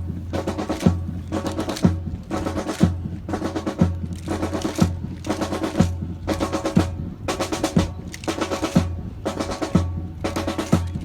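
Marching percussion, snare and bass drums, playing a steady rhythmic cadence with rolls to accompany a drill routine.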